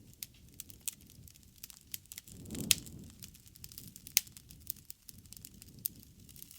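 Wood bonfire crackling, with irregular sharp pops over a low rumble. A low rushing swell builds a little over two seconds in and peaks with the loudest pop, and another strong pop comes about four seconds in.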